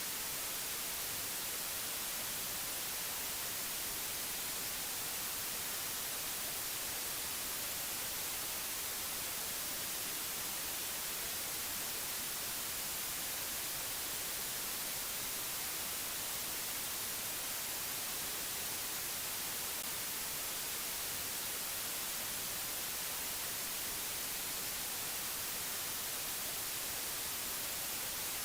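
Steady, even hiss of white noise, strongest in the high frequencies, with no change or events.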